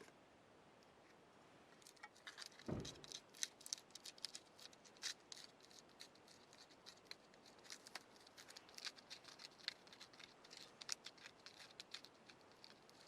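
Faint, irregular sharp clicks and snips of kindling and tinder being readied by hand for a campfire, with one low thump about three seconds in.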